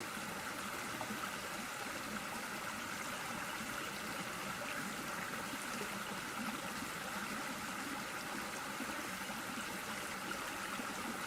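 Steady chorus of summer insects in a swamp forest: an even, unbroken drone.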